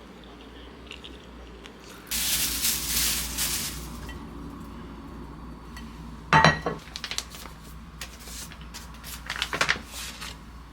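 Kitchenware being handled: a short hiss like a spray, then a single sharp ringing clink about six seconds in, followed by lighter clicks and clatter.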